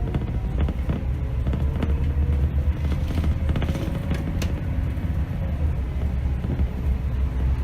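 Scania K270 city bus under way, heard from the driver's seat: a steady low diesel rumble with a faint whine that slowly rises in pitch, and occasional clicks and rattles.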